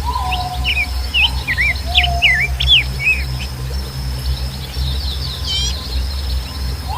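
Birds chirping, with a quick run of up-and-down chirps in the first half, over a steady high insect-like drone and a low steady rumble. A longer call that rises and then holds comes near the start and again at the end.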